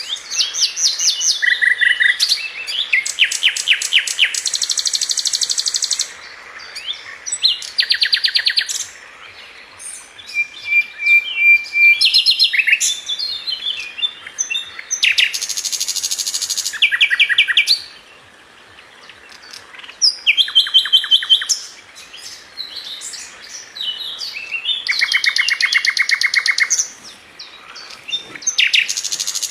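Sikatan London flycatcher singing: fast, high trills and chirp runs in bursts of one to three seconds, separated by short pauses.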